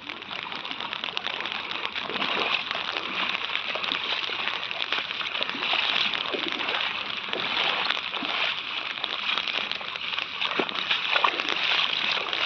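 Floodwater sloshing and splashing: a steady rush of water with many small splashes.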